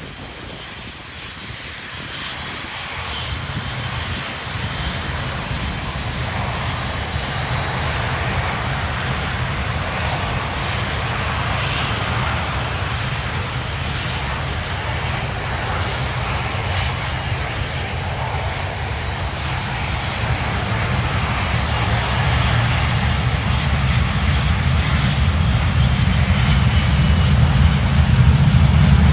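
Red Arrows BAE Hawk T1 jets with their Adour turbofan engines running, a low rumble with a high turbine whine, growing steadily louder.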